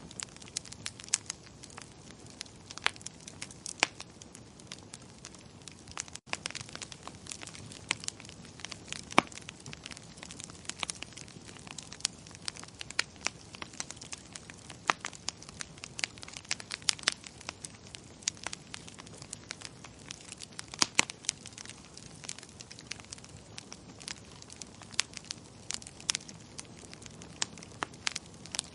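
Wood fire crackling in a fireplace: irregular sharp pops and snaps, several a second, over a steady low hiss, with a momentary gap about six seconds in.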